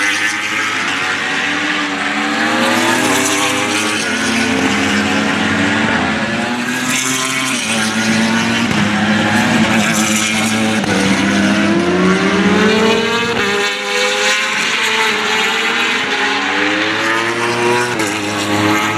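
Several racing motorcycles passing on the circuit, their engines revving up and down through the gears with overlapping, rising and falling engine notes.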